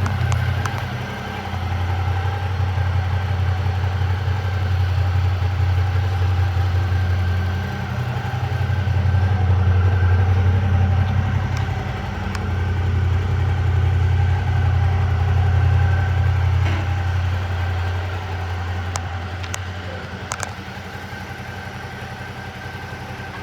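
Suzuki V-Strom 650XT's 645 cc V-twin engine idling steadily. Its level swells and fades without the pitch changing, and it is fainter over the last few seconds, with a few light clicks.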